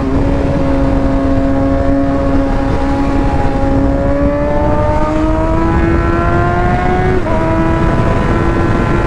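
Motorcycle engine heard through a helmet-mounted mic, holding steady revs, then pulling up in pitch for a few seconds before an upshift about seven seconds in, with a steady low rush underneath.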